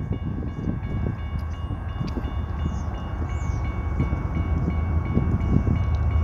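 BNSF freight train's diesel locomotives rumbling as they approach, growing slowly louder. A grade-crossing warning bell rings steadily over the rumble.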